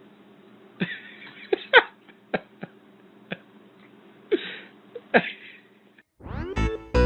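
A string of short, throaty vocal bursts, about eight of them, scattered over several seconds. Near the end, cheerful keyboard music starts with a rising sweep.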